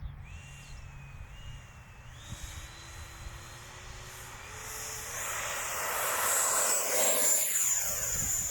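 Electric ducted-fan model jet throttling up: a fan whine that climbs in pitch in steps. The noise then builds as the jet runs past on its take-off roll, loudest about seven seconds in, and its pitch falls as it passes.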